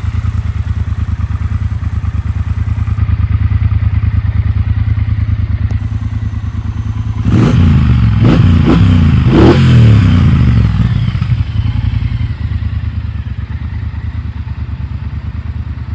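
Triumph Bonneville Bobber Black's 1200cc water-cooled parallel-twin engine idling steadily, then blipped through several quick revs about seven seconds in before settling back to idle.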